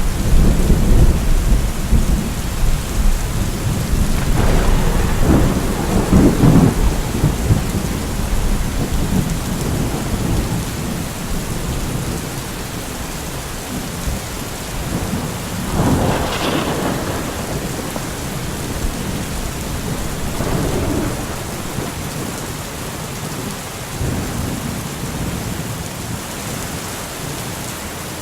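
Steady rain with rolling thunder: a heavy low rumble through the first several seconds, a sharper thunderclap about sixteen seconds in, and fainter rumbles after it.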